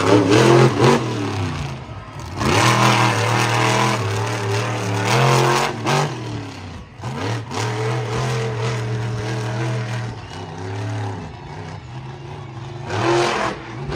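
Monster truck's supercharged V8 engine revving hard in repeated surges, the pitch climbing and dropping several times with a steadier stretch of running between.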